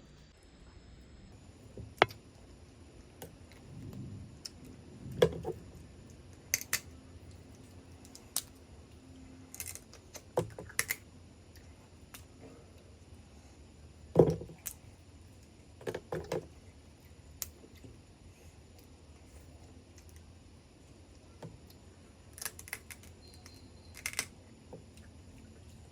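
Mud crab being eaten by hand: scattered sharp cracks and clicks of shell at irregular intervals, with quieter chewing and handling between.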